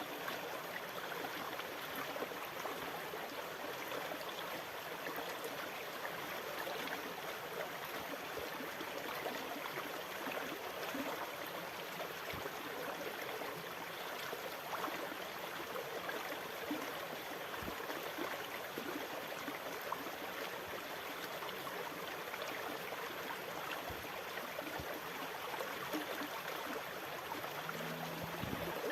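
Sea water rushing and splashing steadily, an even wash of noise with no swells or pauses.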